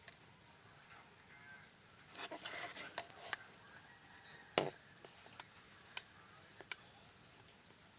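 A scattering of sharp clicks and taps, with a short scuffling noise about two seconds in, over a steady faint hiss.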